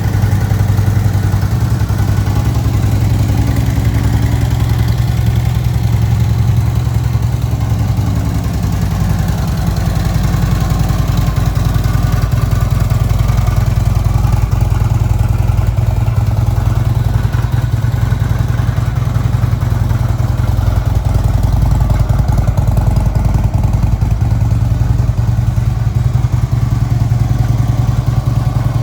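Harley-Davidson Switchback's V-twin engine idling steadily.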